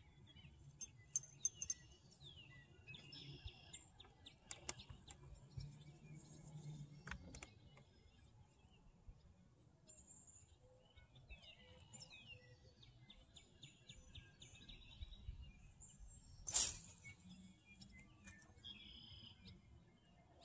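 Songbirds chirping and calling, with several sharp clicks, the loudest about three quarters of the way through.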